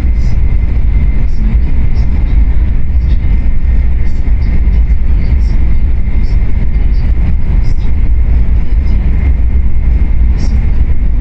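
Tokaido Shinkansen train running at speed, heard from inside a passenger car: a steady low rumble with a faint, steady high whine over it.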